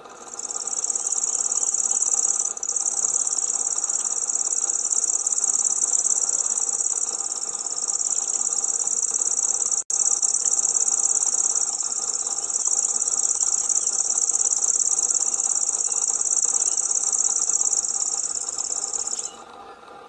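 Grasshopper warbler reeling: one long, unbroken, very high insect-like trill that stops about a second before the end, with a short break near the start and a sudden split-second dropout halfway. A faint steady hum sits under it.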